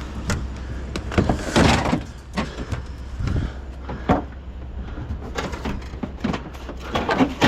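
Scrap car body parts being handled: a string of sharp metal knocks and clanks, with a longer scraping rattle about a second and a half in, over a steady low hum.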